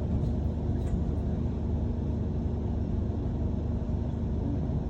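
Steady low rumble of a moving city bus heard from inside the cabin, engine and road noise together, with a couple of faint clicks in the first second.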